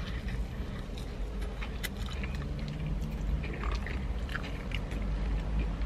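A man chewing and biting a breaded fried chicken wing, with small scattered clicks and crackles of mouth noise over a low steady rumble.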